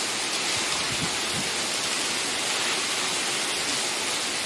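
Heavy rain pouring down in a thunderstorm, a steady hiss.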